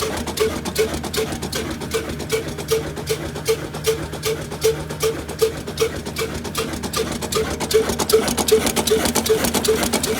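Old stationary diesel engine of a chaki flour mill running, beating steadily at about three to four knocks a second.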